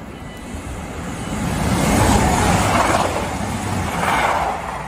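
CrossCountry Voyager diesel multiple unit passing through the station at speed: the engine and wheel rumble builds as it approaches, peaks about two to three seconds in, and surges again near the end.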